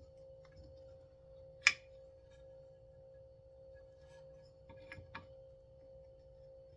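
Sharp clicks of tools and small parts being handled while working on a chainsaw's recoil pull starter: one loud click about a second and a half in, then two or three lighter clicks near the five-second mark, over a steady hum.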